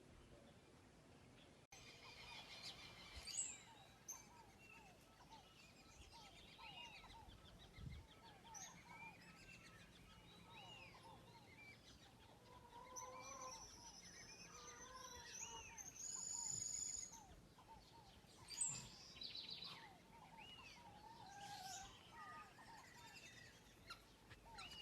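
Several wild birds chirping and calling faintly, with many short repeated chirps overlapping and a higher, louder call around two-thirds of the way through.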